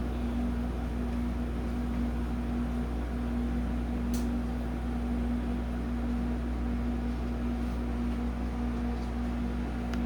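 A steady hum from an appliance or fan, with a constant low tone over an even hiss, and a single faint click about four seconds in.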